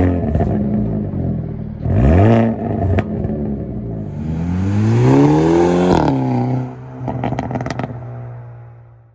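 Car engine revving: a quick blip at the start and another about two seconds in, then a longer climb that peaks and drops back to idle, with a few sharp exhaust pops. The idle then fades out near the end.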